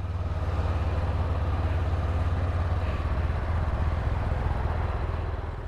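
Motorcycle engine running steadily under way, a low hum mixed with rushing wind noise.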